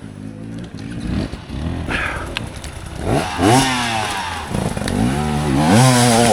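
Motorcycle engine running at low revs, then revved up and back down twice.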